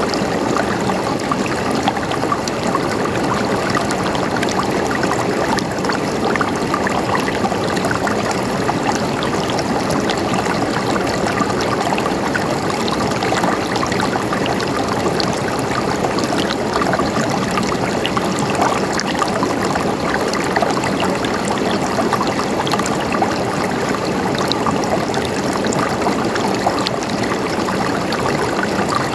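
Water flowing and gurgling steadily, with many small splashes and drips throughout.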